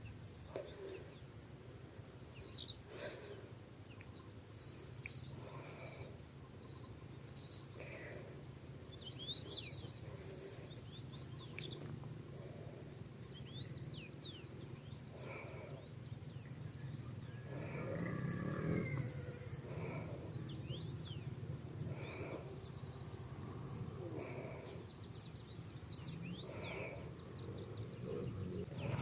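Birds chirping and singing in many short calls, some sweeping up or down, over a steady low rumble of outdoor background noise. A louder, lower-pitched call comes about two-thirds of the way through.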